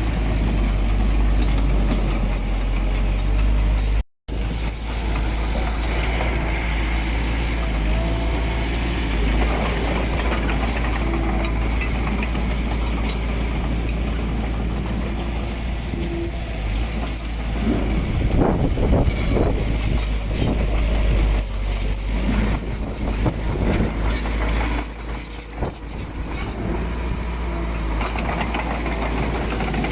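Diesel engine of heavy earthmoving machinery running steadily with a deep low rumble, and a louder stretch of knocks and rattles about eighteen seconds in. The sound cuts out for an instant about four seconds in.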